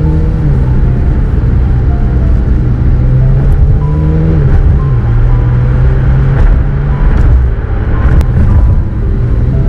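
A McLaren 750S's twin-turbo V8 running while the car drives, its pitch dropping slightly about four and a half seconds in. Background music plays over it.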